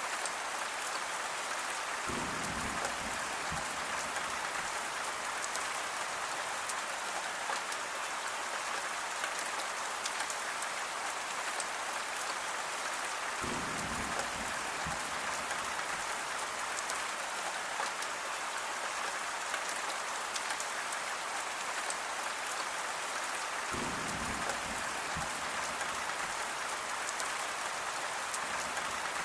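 Steady, even rainfall, with individual drops ticking close by. Three times, about ten seconds apart, a brief deeper sound swells underneath the rain.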